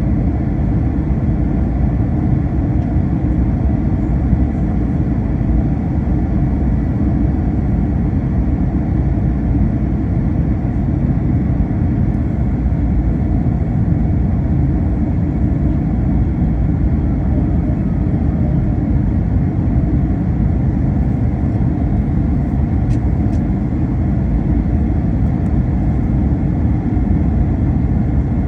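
Steady low rumble of an Airbus A321's engines and airflow heard from inside the passenger cabin, holding level with no change in pitch or power.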